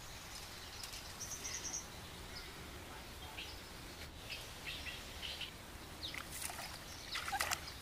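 Small birds chirping in short, scattered calls over steady outdoor background noise, with a cluster of sharper chirps near the end.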